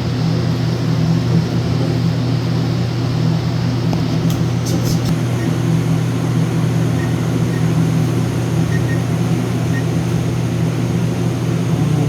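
Steady low mechanical hum, with a few brief clicks about four to five seconds in and faint short beeps scattered through the second half.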